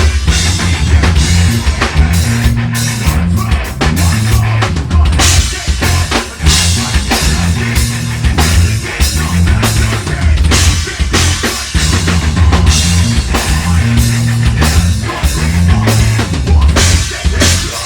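Heavy metal band playing live and loud: a pounding drum kit with bass drum, snare and cymbals over a heavy, shifting bass line.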